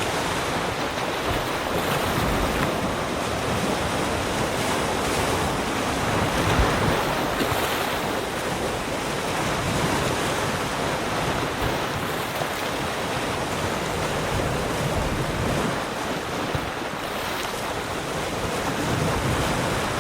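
Sea surf: waves breaking and washing on the shore in a steady rush, swelling gently and falling back, with some wind on the microphone.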